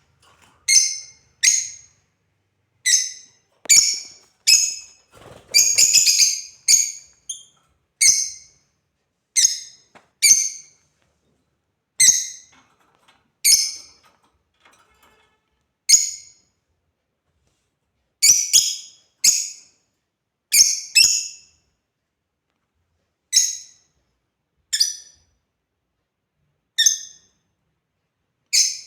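African lovebirds giving short, shrill chirps, one every second or two at uneven intervals, with a quick flurry of calls about six seconds in.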